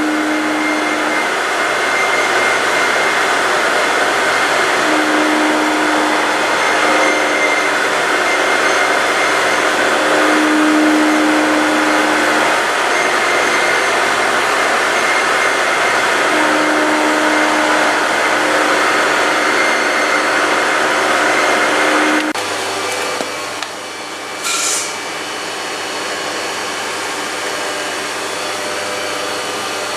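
A loud, steady machine whir with a faint hum that comes and goes. About 22 seconds in it drops to a quieter, lower steady hum, with a short high hiss a couple of seconds later.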